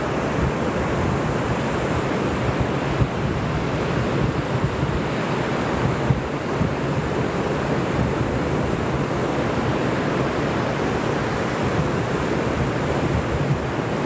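Ocean surf washing in a steady rush, mixed with wind buffeting the microphone.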